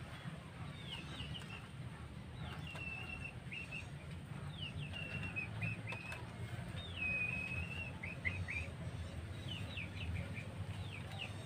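A small bird chirping and singing, phrases of short high whistled notes and slurred calls repeated every second or two, over a low steady rumble.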